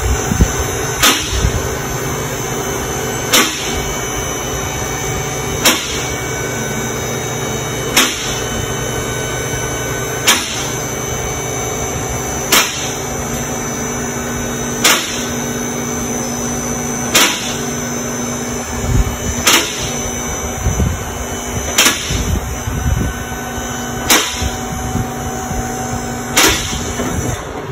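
Car engine running steadily at a constant held speed while circulating engine-flush rinse oil, with a sharp click repeating about every two and a quarter seconds.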